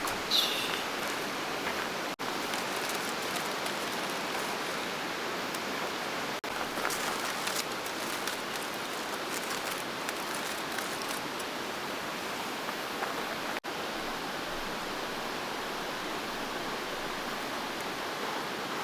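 Steady rushing of a river flowing past, an even hiss that drops out briefly three times.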